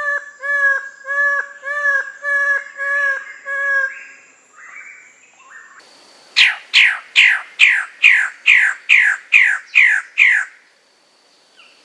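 Bird calls: first a run of about nine evenly spaced, clear whistled notes, then about eleven loud, sharply falling calls at roughly three a second, stopping abruptly near the end.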